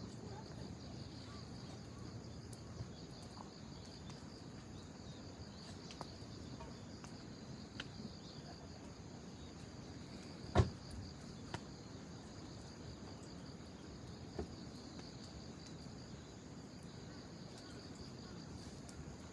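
Bonfire crackling with scattered sharp pops, one much louder pop about ten seconds in, over a steady high chirring of insects.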